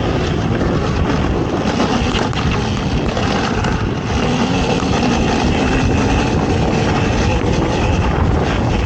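Off-road race vehicle's engine running loud and steady, with dense rumbling noise and a few short knocks over it.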